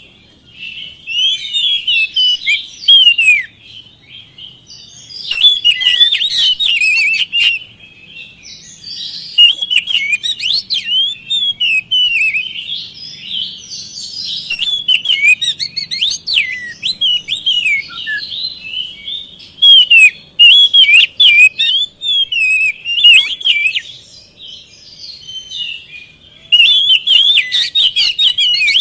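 Oriental magpie-robin (kacer) singing: loud bursts of quick, varied whistles and chattering notes, each burst lasting a few seconds, with short quieter gaps between them.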